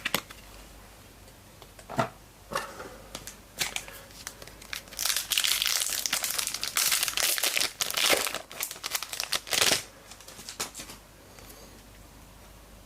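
A trading-card pack wrapper being torn open and crumpled in the hands: a few sharp clicks of handling first, then about five seconds of dense crinkling, fading to quieter rustling near the end.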